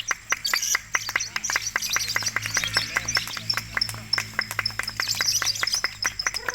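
Lovebirds chattering in a fast, even run of sharp chirps, about six a second, with high twittering over it.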